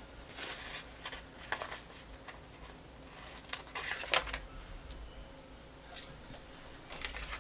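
Faint rustling and crinkling of paper sticker sheets being handled, in a few short bursts.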